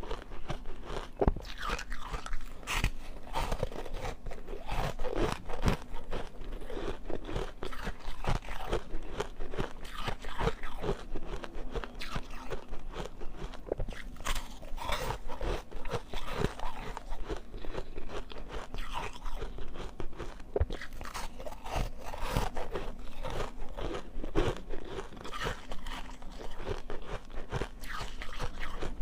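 Ice being bitten and chewed close to the microphone: a continuous run of crunching and crackling.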